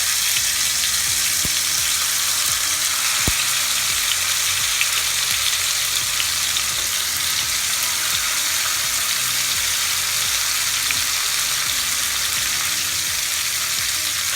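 Marinated chicken pieces frying in hot oil in a pan, a steady sizzle with fine crackling. Two light knocks come about one and a half and three seconds in.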